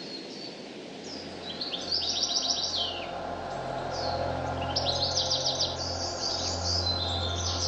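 Songbirds singing in a forest, with quick repeated high trills twice over. A low steady tone swells in beneath them about a second in.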